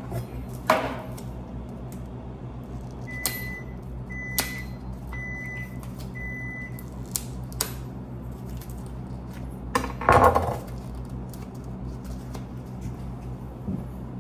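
Microwave oven beeping four short times, about a second apart, as it finishes heating; a loud clatter of dishes or the door comes a few seconds later, over a low steady hum.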